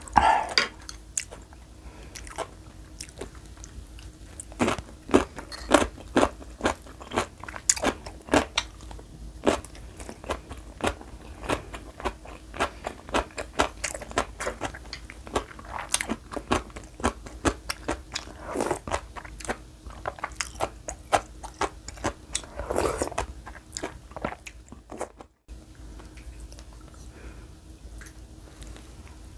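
Close-miked chewing and eating sounds of a person eating spicy beef soup with rice: a steady run of short, sharp wet mouth clicks.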